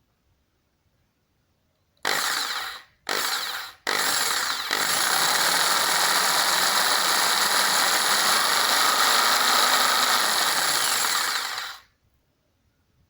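Bosch GST 700 500-watt jigsaw motor switched on about two seconds in. It is blipped on and off in three short bursts, then runs steadily for about seven seconds before cutting off.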